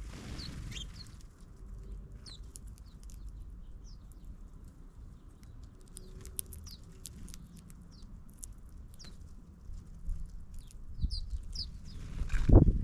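Small birds chirping: scattered short, high chirps and quick falling notes. Low rumble underneath, with a few louder thumps and rustles near the end.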